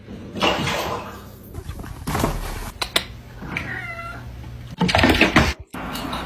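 A cat meowing: one drawn-out, wavering meow about halfway through. Several bursts of rough noise come before and after it, the loudest near the end.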